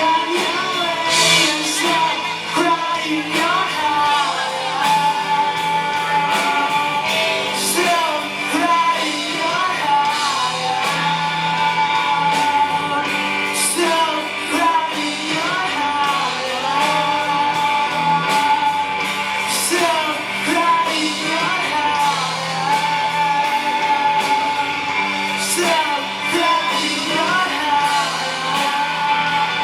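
Live rock band playing a cover song: a lead singer over electric guitars, bass and drums, with cymbal crashes marking the sections.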